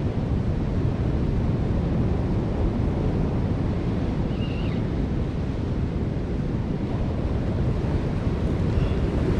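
Steady wind noise on the microphone, with the wash of sea surf under it.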